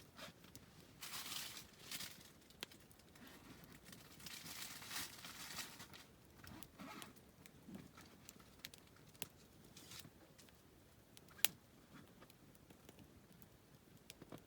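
Wood campfire crackling quietly: scattered sharp pops and ticks as the burning wood bursts, with a few soft hissing swells, the loudest single pop about eleven seconds in.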